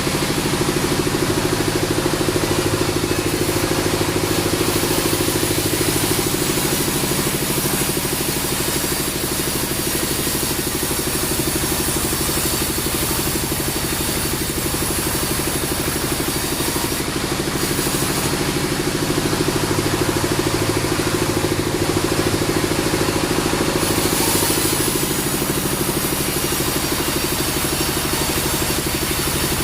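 Band sawmill running steadily: a constant engine-like hum with a hiss above it, swelling slightly now and then.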